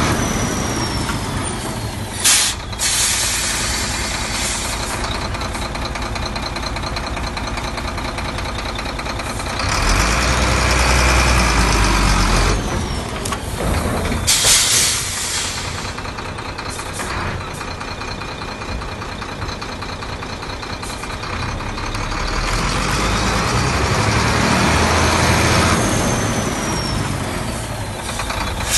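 Diesel engine of a 371 hp HOWO 8x4 dump truck running, picking up twice for a few seconds with a rising and falling whine. Short, sharp air-brake hisses come about two seconds in and again near the middle.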